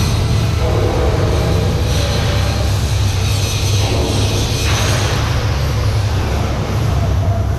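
Ship's engine-room machinery running with a loud, steady drone and a deep hum underneath.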